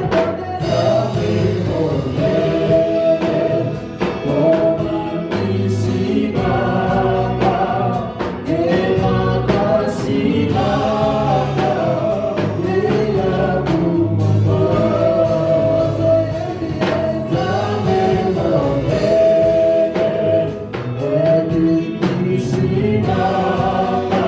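Gospel choir singing with a band.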